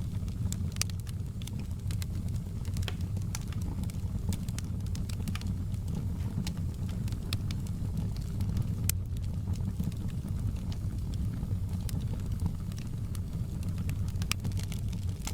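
Wood fire crackling in a fireplace: irregular sharp pops and snaps, one of the sharpest about nine seconds in, over a steady low rumble of the burning fire.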